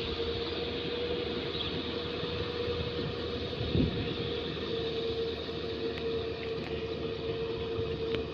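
Tractor running steadily, with a steady mid-pitched whine over the engine noise.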